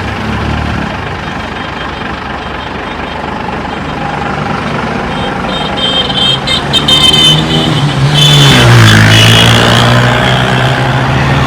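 Mercedes-Benz 1317 tipper truck's turbocharged straight-six diesel engine running, growing louder about halfway through, with a high-pitched whine over it for a few seconds.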